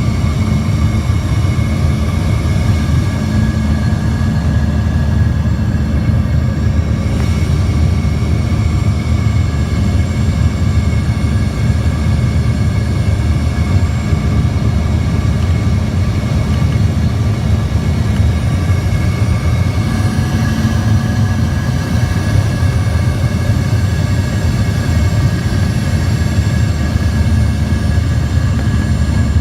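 Steady cabin noise of an airliner on its landing approach: a loud low rumble of airflow and engines with faint steady high-pitched engine tones above it.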